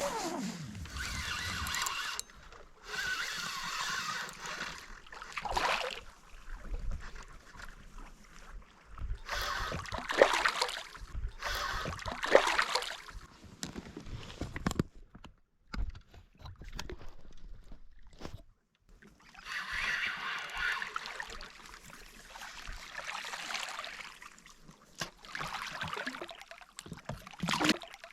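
Water sloshing and gurgling in irregular bursts, with quieter gaps between them.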